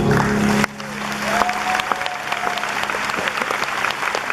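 The song's held final chord cuts off less than a second in, and a concert audience applauds, with one long held cheer rising above the clapping.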